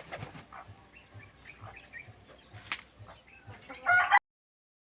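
Backyard chickens and other birds calling in short scattered chirps and clucks over a faint low pulse about three times a second; about four seconds in a loud chicken call sounds and is cut off abruptly.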